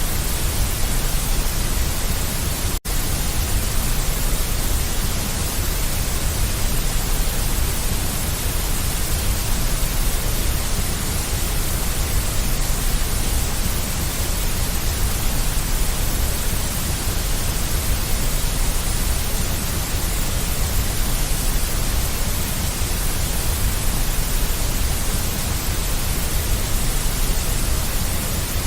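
Continuous deep white noise: a steady, even hiss with a heavy low rumble underneath. About three seconds in it drops out for a split second, then carries on unchanged.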